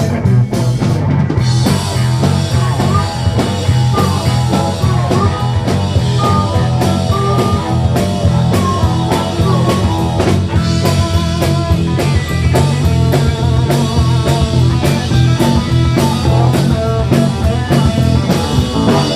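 Live band playing an instrumental rock number on drum kit and guitar, with bent guitar notes; the music stops abruptly right at the end.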